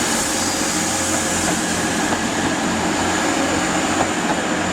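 Class 185 diesel multiple unit departing, its Cummins diesel engines running with a steady engine note.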